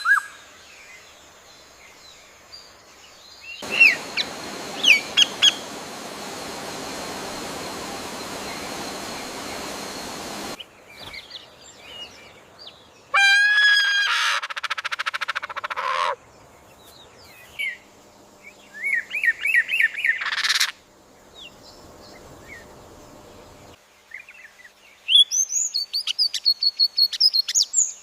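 Birds chirping and trilling in short, rapid runs of notes, with segments starting and stopping abruptly. A steady hiss runs under the calls for several seconds in the first half.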